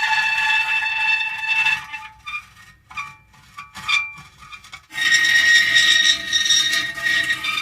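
Metal creaking: a long, high squealing creak, then a run of short creaks and ticks, then another long squealing creak starting about five seconds in.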